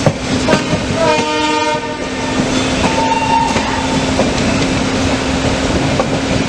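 Express passenger train running with a steady rumble and rail clatter and a low steady hum; a train horn sounds briefly about a second in.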